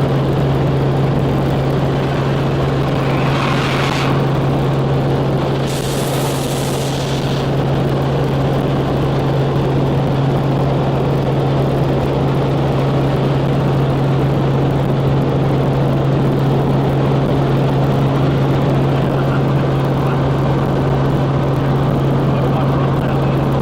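Helicopter running steadily: a constant loud, low drone. Two brief hissing surges come about three and six seconds in.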